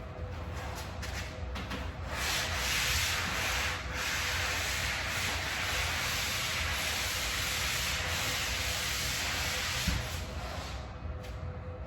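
Drywall being sanded: a steady abrasive rasp that grows louder about two seconds in and eases off near the end.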